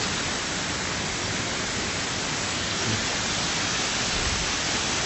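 Steady rush of running water, an even hiss with no tones in it.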